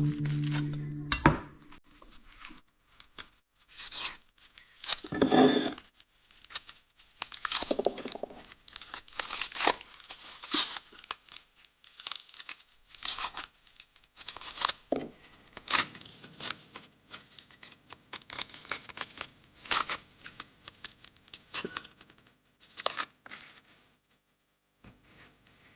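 Packaging being handled: irregular crinkling, rustling and tearing in short bursts with brief pauses.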